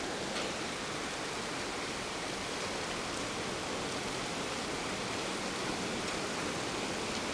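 Hailstorm with heavy rain falling: a steady, dense hiss with a few faint sharp ticks of hailstones striking.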